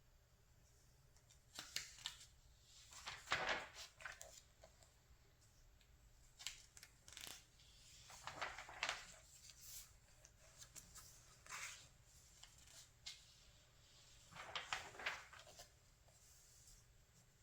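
Glossy magazine pages being turned by hand: about seven short paper rustles and swishes, each a second or two apart, the loudest about three seconds in.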